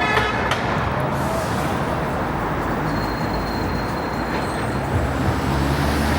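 Steady road traffic noise from vehicles passing on a city street, with a short pitched sound about a quarter second in and a low engine hum growing near the end.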